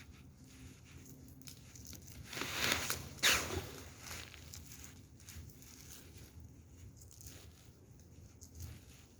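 Wood fire crackling with small scattered pops, with a louder burst of rushing noise and a sharp snap about two and a half to three and a half seconds in.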